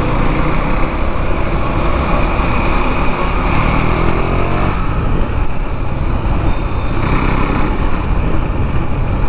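KTM Duke 390's single-cylinder engine running on the move under a steady rush of riding noise. Its pitch climbs for a second or two and falls away about four and a half seconds in.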